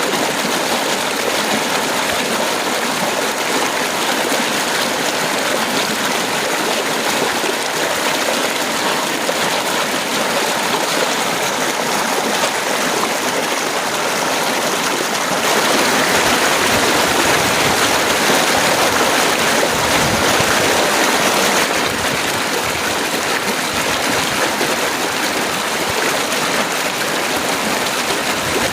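Heavy rain pouring steadily, a dense even hiss of water. A little past halfway it grows louder and fuller for about six seconds, then drops back.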